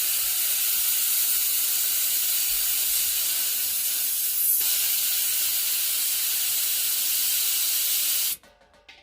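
Compressed air hissing steadily out of a new well pressure tank's air valve as its precharge is let down toward 38 psi for a 40/60 pressure switch. The hiss cuts off sharply near the end.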